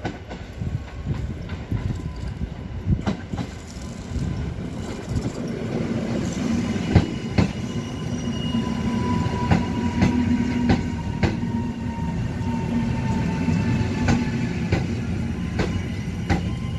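Koleje Śląskie electric multiple unit passing along the platform, its wheels clacking over rail joints over a steady rumble. A thin whine falls slightly in pitch through the middle of the pass.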